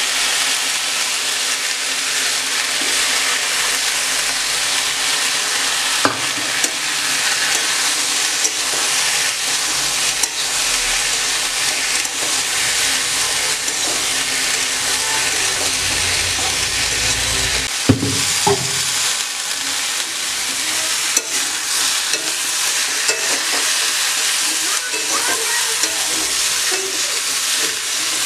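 Green banana, potato and drumstick pieces sizzling steadily in hot oil in a metal wok while a metal spatula stirs and scrapes them, with a few sharp knocks of the spatula on the pan.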